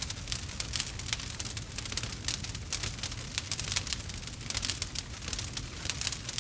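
Campfire crackling: many quick, irregular sharp pops and snaps over a low steady rumble of the burning fire.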